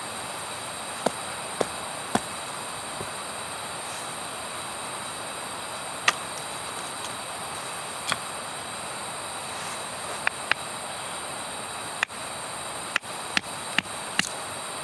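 Wood fire crackling: a steady hiss with sharp, irregular pops, a dozen or so, bunching up in the last few seconds.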